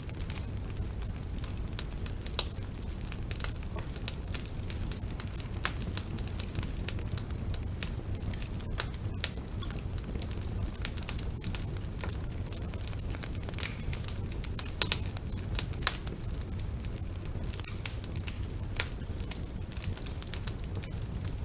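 Wood fire burning in a fireplace: a steady low rumble of the flames with frequent sharp crackles and pops, a few louder pops about two seconds in and around the middle.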